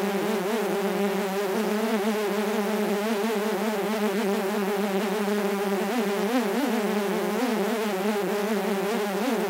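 Mosquito in flight: a continuous buzzing whine whose pitch wavers slightly.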